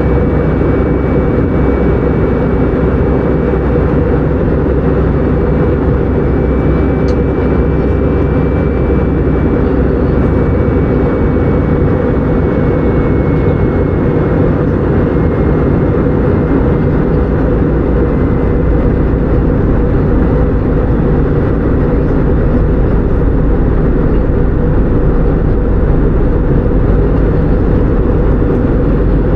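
Airbus A319-100 jet airliner's engines running steadily and loudly, with a faint high whine that slowly falls in pitch.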